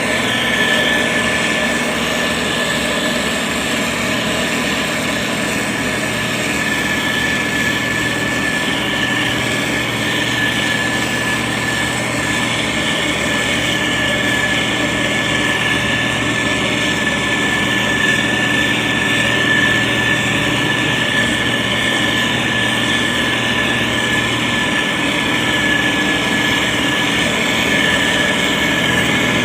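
Diesel engine of a SANY STG190C-8S motor grader running steadily, with a constant high whine over the engine noise.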